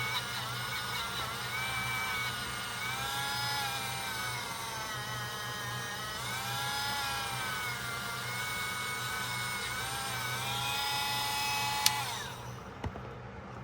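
Small high-speed motor driving a buffing wheel, its whine dipping and recovering in pitch as the wheel is pressed against the knife blade. A click comes about twelve seconds in, and the whine falls away as the motor is switched off and spins down.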